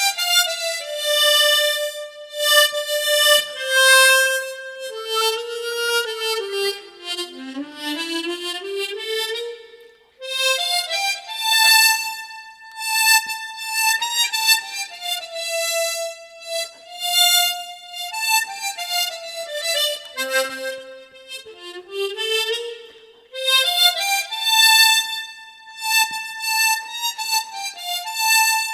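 Tremolo harmonica playing a slow, lyrical solo melody of sustained notes. A phrase steps down to its lowest notes and climbs back up, with short breaks between phrases about ten seconds in and again near the end of the second third.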